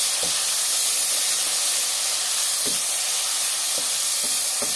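Tomato-and-chilli masala sizzling in hot oil in a karahi, a steady loud hiss. A wooden spatula stirs through it, with a few light strokes against the pan.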